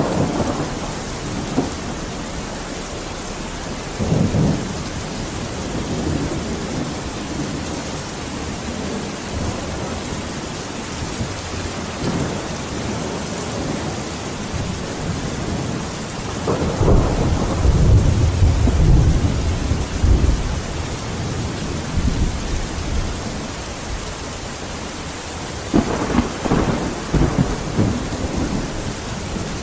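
Steady heavy rain with rolling thunder: a short rumble about four seconds in, a longer, louder rumble in the middle, and another near the end.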